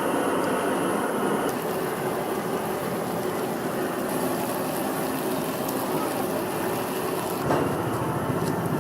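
Steady sizzling of food being stir-fried in a hot wok over a gas flame, with a brief change in the sound near the end.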